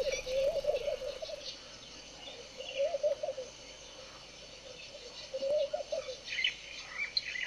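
Birds calling: a low warbling call repeated three times, about every two and a half seconds, with fainter high chirps between.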